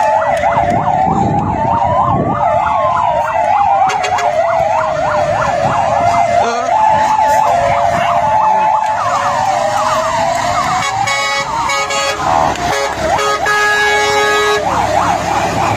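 Several fire-truck sirens sounding at once: fast yelping sweeps over a slower rising-and-falling wail and a two-note hi-lo tone. In the second half, steady stacked horn-like tones join in.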